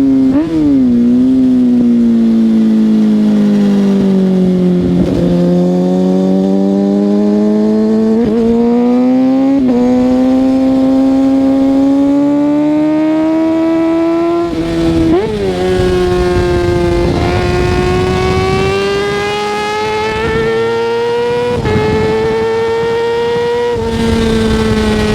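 Kawasaki ZX-6R 636's inline-four engine under way, its pitch falling off as it slows and climbing again as it pulls, with several quick sharp rises in revs along the way. A rough low rumble of noise sits under the engine in the second half.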